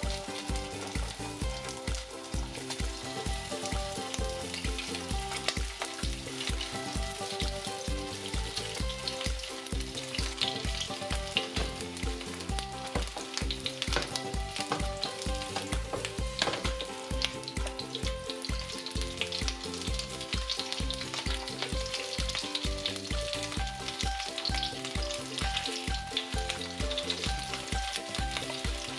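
Chicken wings shallow-frying in a little oil in a frying pan: steady sizzling with dense, continuous crackling and spitting.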